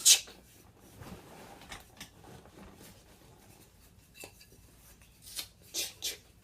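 Faint rustling and a few light clicks and taps of objects being handled, after a short sharp hiss at the start.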